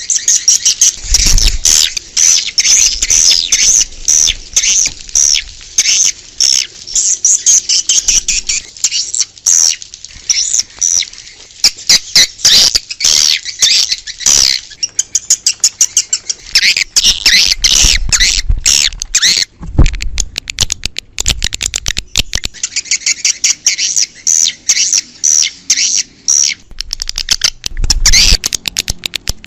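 Swiftlets calling: a dense, rapid twittering of short high chirps, played as a lure sound to draw swiftlets to a nesting house.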